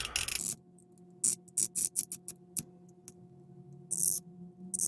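Chrome plating being scraped off a plastic model-kit part: a quick run of short scratching strokes, then a few longer scrapes, so that glue will stick to the bare plastic. A faint steady hum lies underneath.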